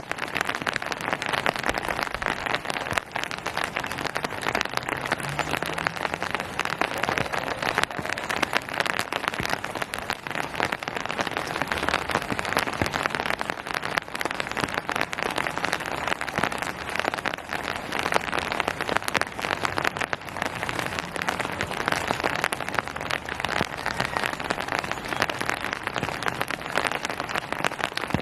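Steady rain falling on surfaces: a dense, even patter of countless drops.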